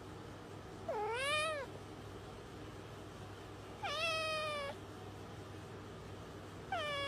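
A domestic cat meowing three times, about three seconds apart; each meow is short and pitched.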